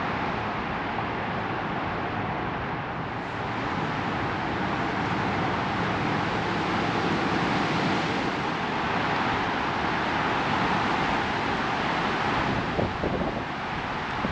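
Strong wind blowing in a steady rush that swells a little midway, with wind buffeting the microphone.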